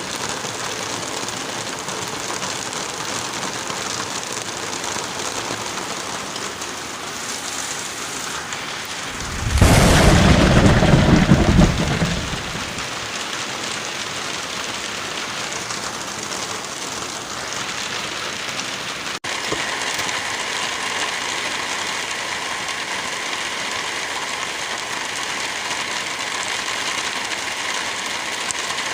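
Steady heavy rain with one loud, deep thunder clap rumbling for about two seconds about a third of the way in. About two-thirds in, the rain sound briefly drops out and then carries on with a slightly different texture.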